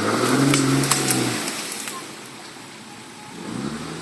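An engine revving: it rises in pitch, holds for about a second and a half, then dies down. It revs up again near the end. A few sharp clicks or cracks sound over it in the first second.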